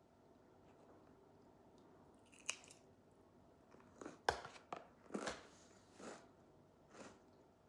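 A person biting and chewing crunchy food close to the microphone: quiet at first, then a handful of sharp crunches in the second half.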